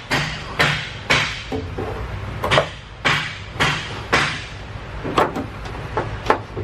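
Short, sharp metallic clacks and clicks of hand tools, about a dozen of them, spaced roughly half a second to a second apart, as a ground wire's eyelet is fastened down, over a steady low background hum.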